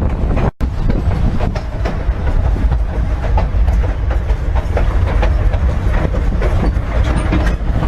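Narrow-gauge train running on the rails, heard from aboard a car: a steady rumble with the wheels clacking over the rail joints. The sound drops out for an instant about half a second in.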